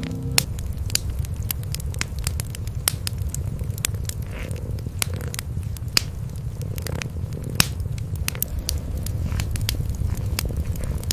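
Cat purring in a steady low rumble over a wood fire crackling, with frequent sharp pops and snaps.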